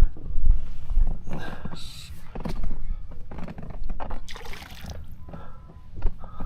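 Water sloshing and splashing from a freshly caught trout being handled at the water's edge, with heavy close knocks from handling near the start.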